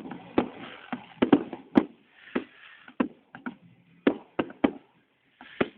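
Fireworks going off at a bonfire lighting: an irregular string of sharp bangs and pops, more than a dozen, some close together, with a faint crackle between them.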